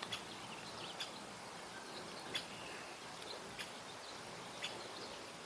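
Faint outdoor ambience by the water: a steady low hiss with a few short bird chirps and soft clicks, about one a second.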